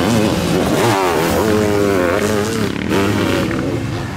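Sidecarcross outfits' motorcycle engines revving hard on the dirt track, the pitch climbing and dropping again and again with throttle and gear changes, several engines at once. The sound falls off a little near the end as the outfits pull away.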